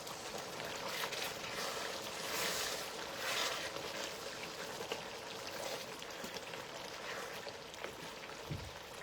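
A pot of spinach stew simmering on the stove: a steady soft hiss that swells and fades gently every second or so.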